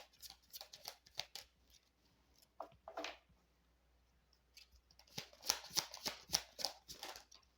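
A tarot deck being shuffled by hand: quick runs of card flicks and slaps, in two spells with a pause of a few seconds between them.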